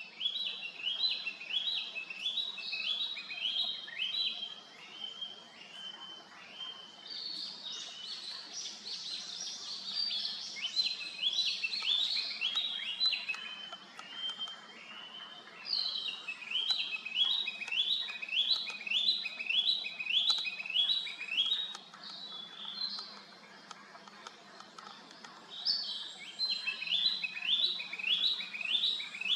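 Narcissus flycatcher singing: bouts of quickly repeated high whistled notes, each bout lasting several seconds, broken by short pauses.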